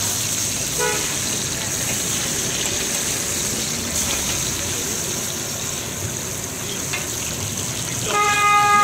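Chapli kebab patties sizzling steadily in shallow oil on a large flat griddle. A vehicle horn gives a brief toot about a second in and a longer honk near the end, which is the loudest sound.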